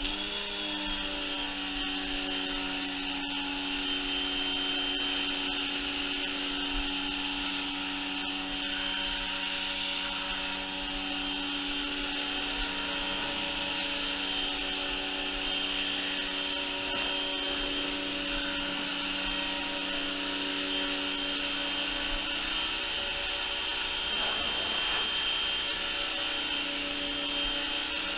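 Electric wall-mounted pressure washer running steadily: its 1800 W motor and pump hum with a high whine, over the hiss of the water jet. The pitch shifts slightly now and then as the load changes.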